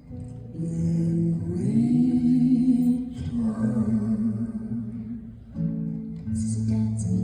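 Live music: a singer holding long notes over acoustic guitar accompaniment, with a slide up into one note about two seconds in.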